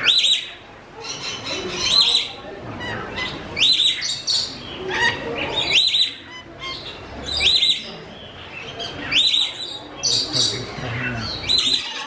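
Aviary birds chirping: short, high calls repeating about every second or two.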